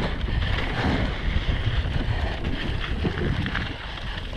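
Wind rushing over the microphone of a camera on a mountain bike riding down a dirt trail, with the rumble of the tyres on the ground and a few light rattles from the bike.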